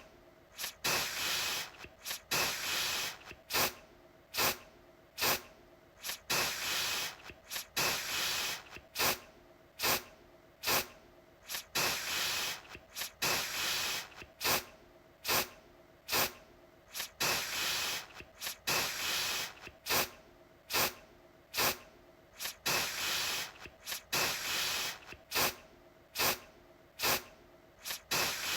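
Aerosol deodorant can spraying in repeated bursts: short sharp puffs about once a second, mixed with longer hisses lasting about a second.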